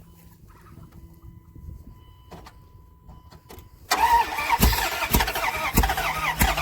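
After a few quiet seconds, the Dodge Durango's 5.2 V8 is cranked by its starter and turns over without firing, with a heavy beat about every two-thirds of a second. There is water in the cylinders from failed RTV-sealed head gaskets, which is what keeps it from catching.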